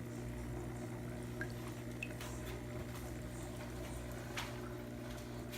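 Home aquarium with its water trickling and dripping over a steady low electrical hum, with a few faint drips or clicks.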